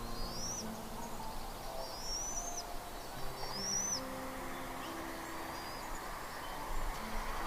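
High bird calls, three rising chirps in the first four seconds, over a bed of low, sustained tones that change pitch every second or so.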